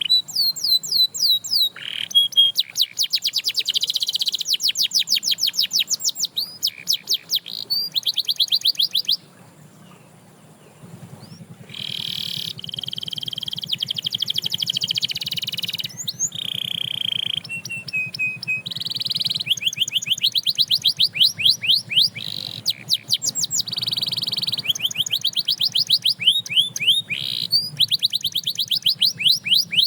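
Domestic canary singing: phrases of fast, evenly repeated trill notes, each phrase held a second or two before switching to another, with a short pause about a third of the way in.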